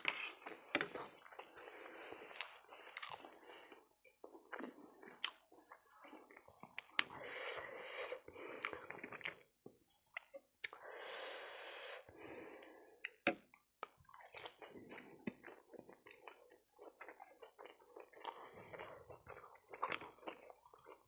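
Close-miked chewing of pork keema noodles and fried pork momos, a fairly quiet, irregular run of wet mouth sounds broken by many short, sharp clicks.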